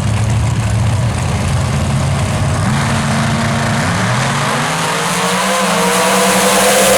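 Race car engine accelerating hard, its pitch climbing over several seconds with a step partway through like a gear change.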